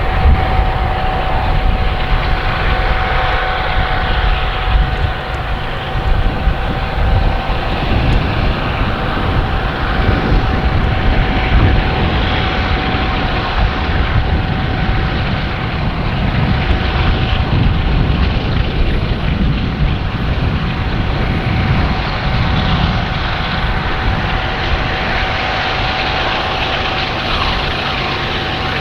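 Diesel locomotives of a loaded coal train working hard up a grade: a loud, steady engine drone and rumble with a steady high whine over it.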